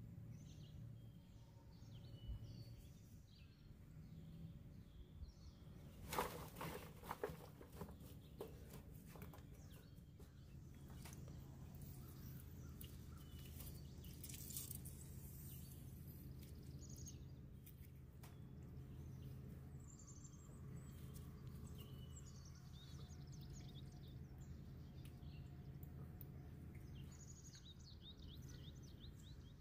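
Faint bird chirps over a steady low hum, with a short cluster of knocks about six to eight seconds in.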